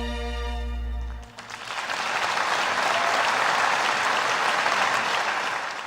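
The song's final held chord dies away about a second in, and a concert audience breaks into steady applause.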